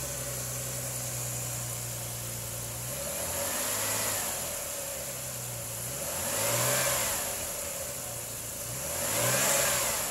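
2004 Jeep Liberty engine idling just after a start, then revved three times, each rev rising and falling back to idle.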